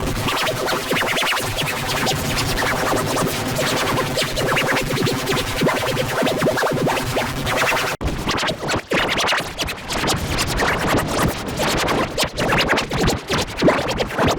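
Heavily effects-processed audio from a cartoon clip, coming out as dense, distorted, music-like sound with no intelligible words. About eight seconds in it cuts abruptly to a choppier, stuttering texture.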